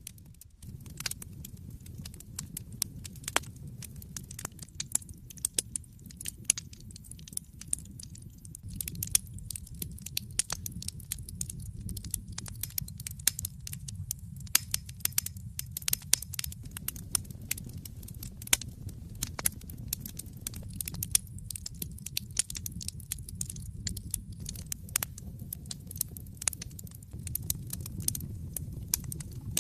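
Wood fire crackling in a fireplace: many irregular sharp pops and snaps of burning logs over a low, steady rumble of the flames.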